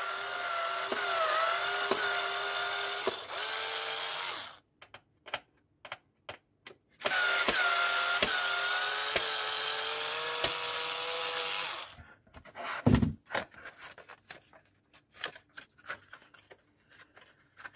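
Small electric screwdriver running in two spells of about four to five seconds each, backing out the two screws that fix a diecast model car to its display base; the motor's whine wavers slightly under load. Light clicks and knocks of handling follow.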